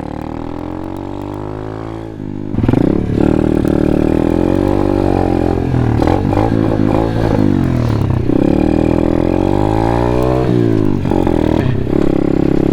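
Apollo pit bike's single-cylinder engine running while riding, lower and steadier at first, then louder from about two and a half seconds in as the revs climb and fall again and again.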